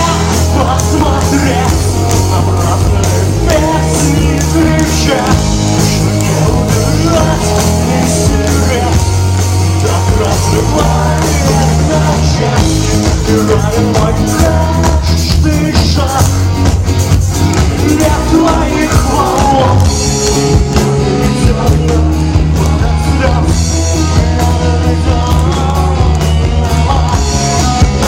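A rock band playing live, loud and without a break, with a steady bass line and drum beat under the instruments and singing in places.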